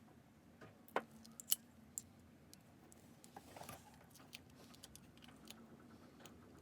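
Faint, scattered clicks and taps of small metal parts and hand tools being handled, a few sharper clicks in the first two seconds and a brief rustle in the middle.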